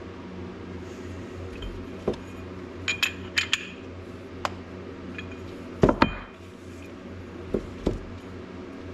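Scattered hard clinks and knocks of bait-making gear being handled (molds and tools set down and tapped), with a quick cluster about three seconds in and two louder knocks about six seconds in, over a steady low hum.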